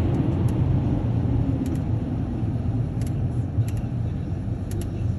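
Automatic car wash running, heard from inside the car: a steady low rumble with a few light ticks scattered through it.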